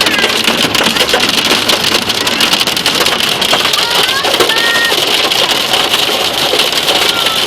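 Heavy rain pelting a moving car's roof and windshield, a loud, dense patter of drops. A few brief pitched sounds come through about four to five seconds in.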